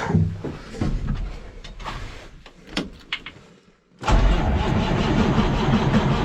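A few knocks and clicks, then about four seconds in the 1978 International S2600's Cummins 290 diesel fires abruptly and settles into a steady run. This is the first start on its new batteries and battery cables.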